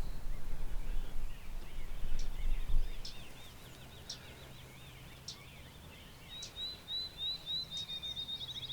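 Songbirds singing: warbling phrases, then a run of short rising notes and a fast trill near the end, with a few sharp ticks. A low rumble fills the first three seconds.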